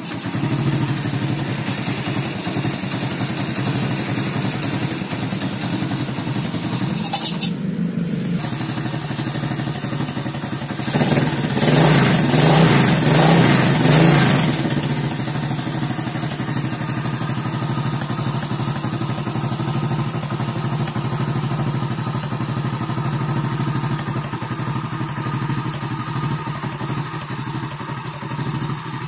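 Honda Grand's single-cylinder four-stroke engine running through a newly fitted aftermarket exhaust, a sound test of the new muffler. It runs steadily, swells louder for a few seconds near the middle, then settles back.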